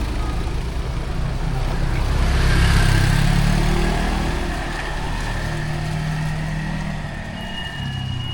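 A motor vehicle passing in the rain: its engine hum rises to a peak about three seconds in and then fades, with the hiss of steady rain and wet road throughout.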